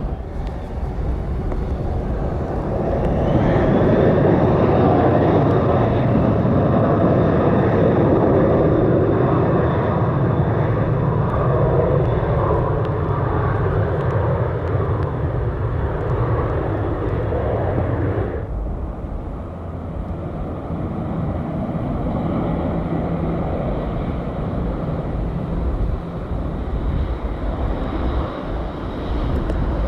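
Airplane engines running, swelling a few seconds in and holding loud for about fifteen seconds, then dropping off abruptly about two-thirds of the way through, with a quieter steady engine noise after.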